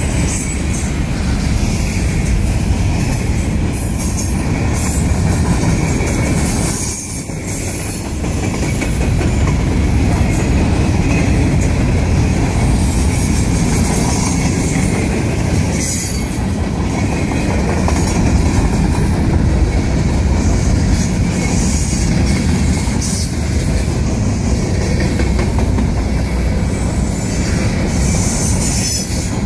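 Freight cars (covered hoppers and tank cars) rolling past close by: a loud, steady noise of steel wheels on the rails, with intermittent high-pitched wheel squeal.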